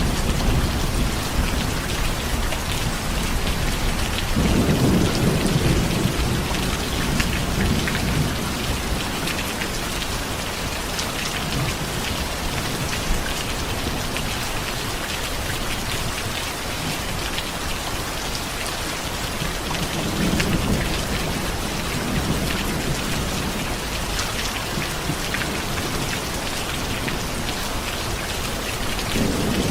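Steady rain falling, with low rolls of distant thunder, a longer one about four seconds in and another about twenty seconds in.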